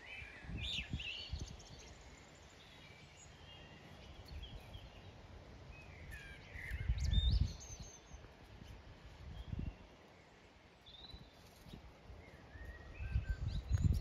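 Songbirds chirping and singing in short scattered phrases, with a few low rumbling bumps, the loudest about seven seconds in and near the end.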